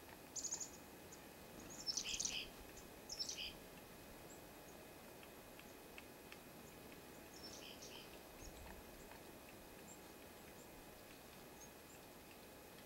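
Small wild birds giving short, high chirps: a few quick calls in the first three or four seconds and a couple more about eight seconds in, over faint steady background hiss.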